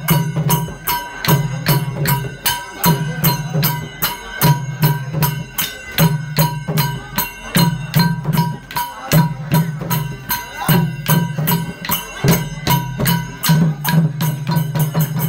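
Khmer chhay-yam dance music from a percussion ensemble: rapid, even strokes about four a second over a steady high ringing tone, with a low tone repeating in regular pulses a little under once a second.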